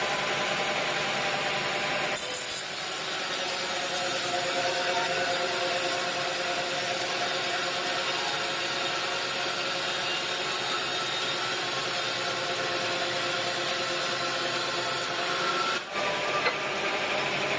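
Sawmill saw cutting through wood: a steady, grinding noise with a whining tone that carries on through the cut. The sound changes about two seconds in and dips briefly near the end.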